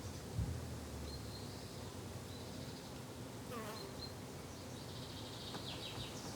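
Summer garden ambience: an insect buzzing close by, with birds chirping a few times. A single low thump comes about half a second in.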